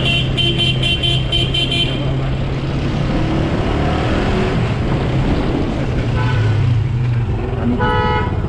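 Street traffic with a steady engine hum. A horn gives a rapid string of about seven short beeps during the first two seconds, and other vehicle horns toot briefly about six seconds in and again near the end.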